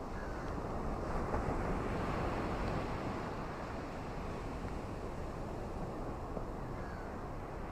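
Ocean surf washing on a shore, a steady rushing noise that swells about a second or two in and then eases off.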